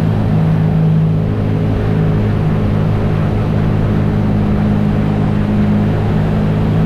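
BMW R nineT's air/oil-cooled boxer twin running at a steady cruise, engine note holding even, over a steady rush of wind and road noise.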